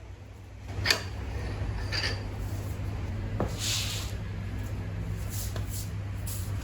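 Clinks and knocks of tools and motorcycle parts being handled during reassembly, a few sharp strikes and a short hiss over a steady low hum.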